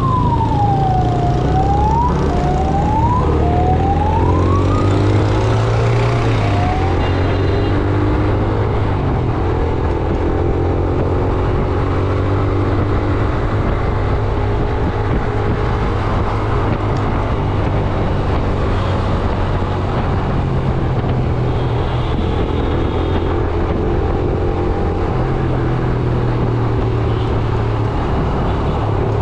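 Yamaha YBR 125G motorcycle engine running in dense road traffic, with a steady hum and traffic noise throughout. In the first few seconds a siren wails, falling in pitch and then sweeping up again three times. Long held tones, like vehicle horns, sound through the middle and again near the end.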